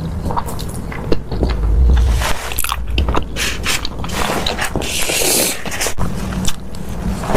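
Close-miked eating sounds: someone biting and chewing food, with a run of wet clicks and smacks and a brief hiss about five seconds in.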